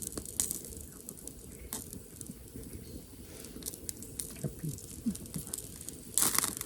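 Wood campfire crackling, with scattered small pops and a louder crackling burst near the end.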